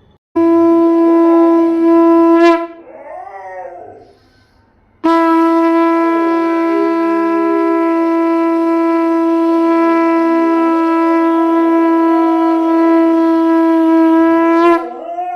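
Conch shell (shankha) blown in two long steady blasts: a short one of about two seconds that bends up in pitch as it ends, then one of about ten seconds. A dog howls along in the gap between the blasts and faintly beneath the second.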